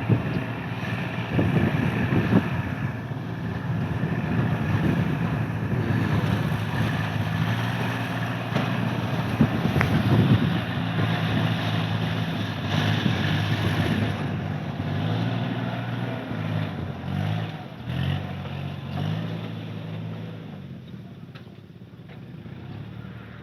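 A motor engine running steadily, its pitch wavering up and down over the second half before it fades away, with wind buffeting the microphone.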